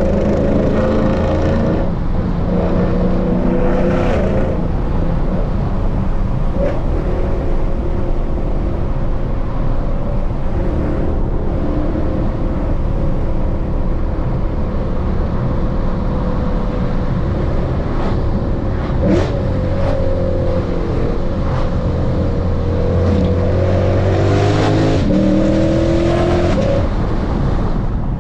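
Lexus RC F's 5.0-litre V8 with bolt-on exhaust parts and a tune, driving under way: a steady loud drone whose pitch climbs and falls with the throttle, rising most clearly near the end.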